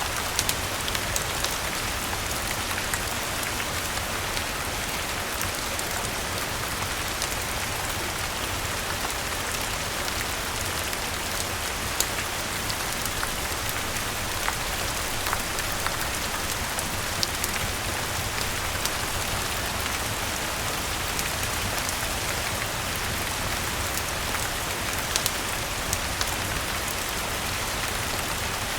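Steady rain falling, an even hiss, mixed with a fireplace crackling: scattered sharp pops and ticks over the rain throughout.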